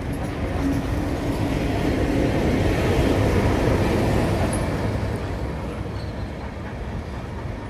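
Heritage passenger train rolling past on the rails, swelling to its loudest as 45 class diesel-electric locomotive 4501 goes by, then fading as it draws away.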